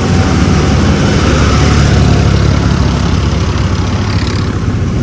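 Truck engine running steadily, a loud low hum with road noise over it.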